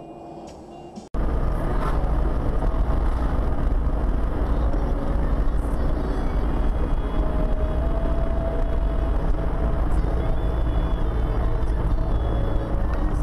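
A car driving: steady, loud low road and engine noise that starts abruptly about a second in, after a short, quieter stretch.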